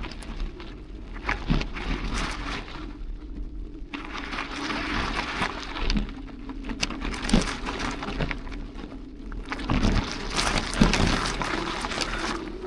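Bicycle ride over a rough path: tyre crunch and small rattles and clicks that swell and fade, over a steady low hum.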